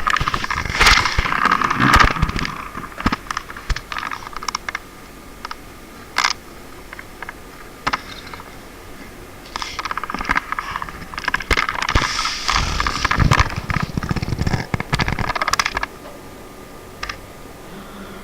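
Computer keys clicking rapidly in two long flurries, with scattered single key presses between them.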